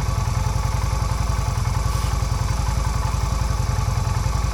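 Yamaha V Star 250's air-cooled V-twin engine idling steadily, an even pulsing beat, running after being revived with an add-on fuel pump in place of its vacuum-operated petcock.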